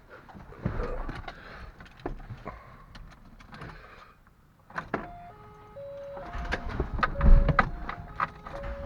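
Clicks and knocks of keys and the car being got into, then an electronic warning chime of stepped tones starts about five seconds in. Over the last few seconds a low rumble with rapid knocks builds as the starter cranks the engine for a cold start.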